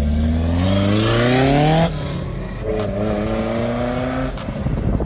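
Honda Civic engine revving hard through the gears with an open, loud exhaust: the test pipe has come apart. The pitch climbs for about two seconds, drops at a gear change, then holds steadier before dying away near the end.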